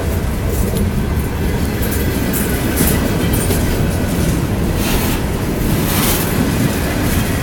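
Ferromex freight train rolling by, a steady loud low rumble with a few short higher-pitched bursts from the wheels and cars.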